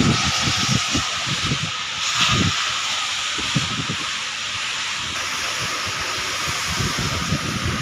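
Steady rain falling, a continuous hiss, with irregular low rumbles underneath.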